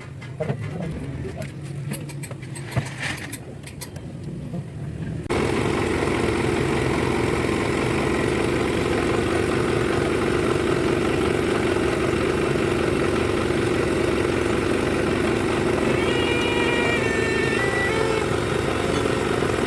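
Light clicks and knocks over a low hum, then, about five seconds in, an engine running steadily and loudly, starting abruptly.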